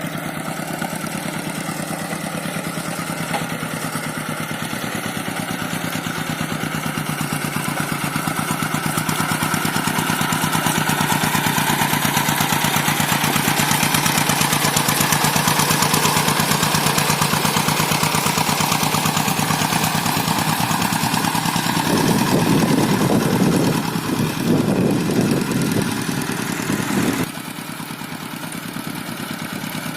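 Paddy tractor engine running steadily and growing louder, then labouring with a rough, heavy sound for several seconds before dropping back to a quieter, even run near the end.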